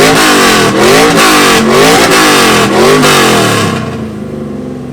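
A 1999 F-body car's exhaust, very loud as the engine is blipped in neutral. It revs up and down about five times in quick succession, then drops back to a steady idle near the end.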